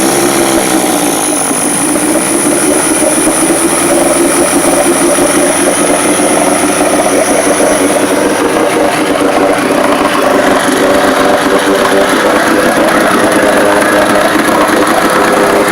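1982 Evinrude 35 HP two-stroke outboard motor running steadily just after a cold start, the first time it has run in years. Its pitch sags a little in the first couple of seconds, then holds even.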